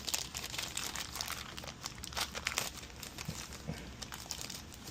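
Handling noise: irregular crinkling rustles and light clicks as a sauna control board is handled and turned about.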